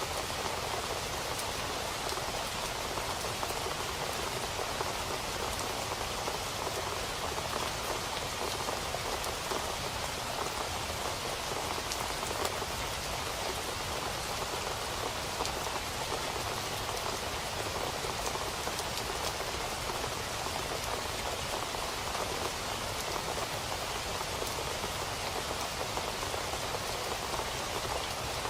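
Steady rain falling on a surface, an even hiss of many drops with fine patter, unchanging in strength.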